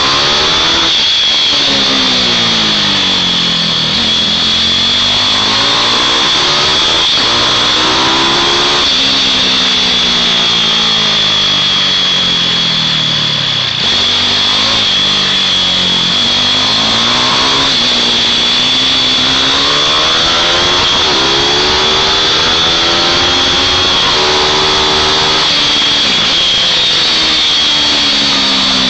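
Small-engined mini bikes lapping a track, their engines rising in pitch as they accelerate and falling as they back off, over and over, at times with two or more bikes heard at once.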